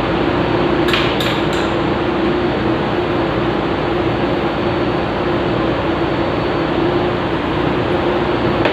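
Steady, loud drone of engine-room machinery with a constant hum, and three quick metallic clinks of tools on metal about a second in.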